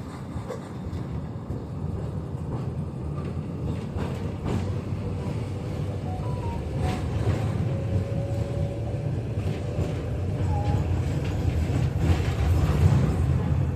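KTM-5M3 tram rolling on its rails, heard from inside the car: a low rumble with scattered clicks from the wheels, growing steadily louder as the tram gathers speed, with a faint whine in the middle.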